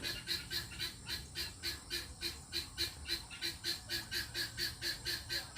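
An animal calling in a steady, even rhythm of short harsh pulses, about four a second.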